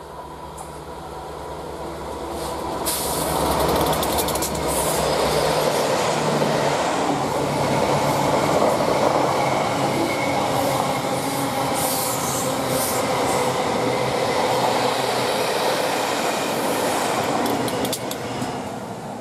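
Royal Train hauled by a pair of Class 67 diesel-electric locomotives passing close by. The lead locomotive's engine hum builds as it approaches, then comes a long rush of coach wheels on the rails with occasional sharp clicks, which falls away near the end as the rear locomotive goes past.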